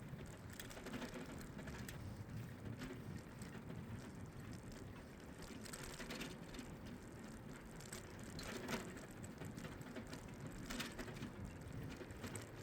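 Bicycle rear-hub freewheel ticking as the rider coasts, with a steady rumble of tyres rolling on the path.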